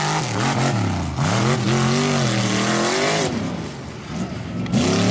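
Off-road race buggy engine revving hard up and down several times as it drives the course. It drops away for about a second and a half past the middle, then comes back loud near the end.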